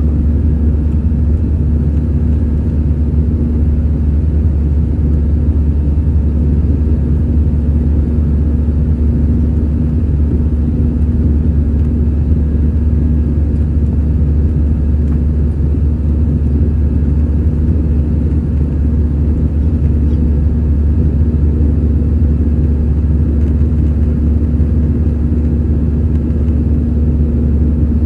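Steady low drone of an Airbus A320-214's CFM56 engines and rushing air, heard from inside the passenger cabin, with an even hum running through it.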